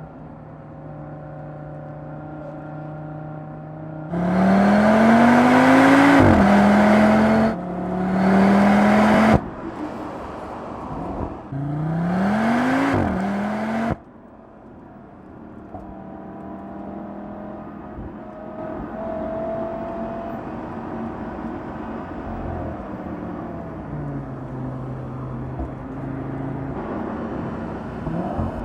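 Audi RS3's 2.5-litre turbocharged five-cylinder engine and exhaust: steady low running, then about four seconds in a loud acceleration with rising pitch and a quick upshift, cut off abruptly. A second rising pull follows about twelve seconds in and stops suddenly, then the engine runs steadily and more quietly.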